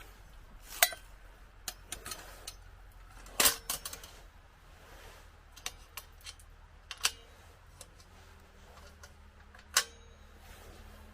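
Metal parts of a compact folding fire stand clinking and clacking as it is handled: about ten separate sharp knocks, some ringing briefly, the loudest a cluster about three and a half seconds in and a single clack near the end.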